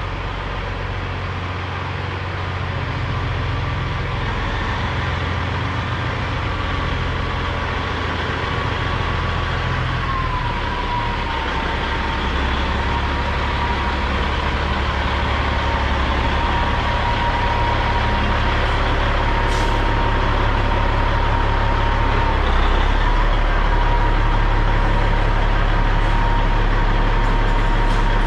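Semi truck's diesel engine running steadily, its low note shifting in steps about ten seconds in and again a little past twenty seconds, with a thin higher whine that drops in pitch at the first shift. The sound grows slowly louder throughout.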